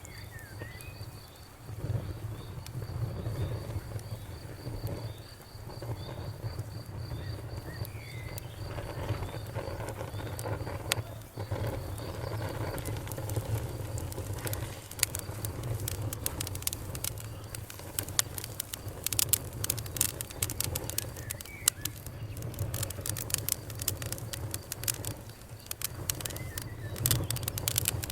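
Wood fire crackling over a low steady rumble, its sharp pops growing much denser in the second half. An insect trills steadily for the first third, and a bird gives a few short chirps.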